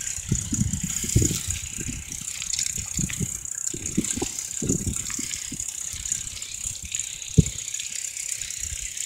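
Bicycle rattling and clunking over bumps as it is ridden, with one sharp knock about seven seconds in, under a steady high hiss.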